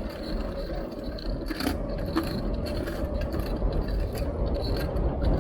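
Wind and road rumble on a bike-mounted action camera while riding, with a few light clicks and rattles from the bicycle.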